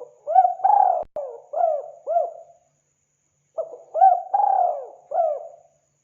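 Spotted dove (tekukur) cooing: two low, arched coo phrases of about two seconds each, with a pause of about a second between them. A brief click comes about a second in.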